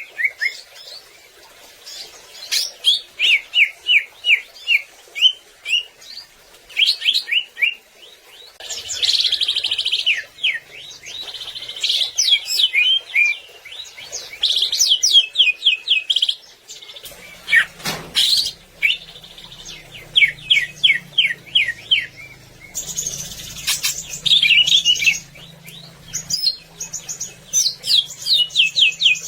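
Cucak ijo (green leafbird) singing: fast runs of sharp repeated chirps and trills in varied phrases, with short pauses between them. A single click comes about 18 seconds in, and a faint low hum runs beneath the song from there on.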